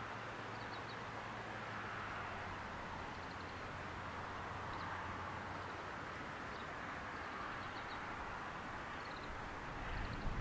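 Steady outdoor background noise with a low hum, with faint short high chirps of small birds in little clusters every second or two.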